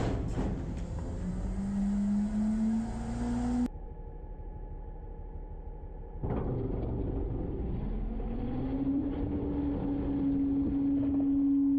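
Garbage truck's engine running with the whine of its hydraulic packer rising in pitch and then holding steady as the compactor cycles. The sound breaks off abruptly twice, about four and six seconds in.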